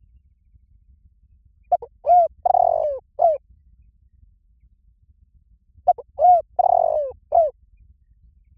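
Spotted dove cooing: two phrases of four notes about four seconds apart, each with a longer, falling third note.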